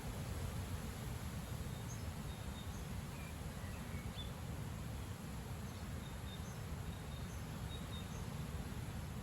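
Strong gusty wind blowing through tall trees, heard as a steady low rumble, with faint short bird chirps now and then.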